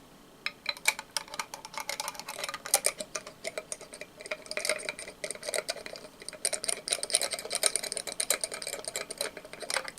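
Quick, uneven tapping on a candle jar, many light taps a second.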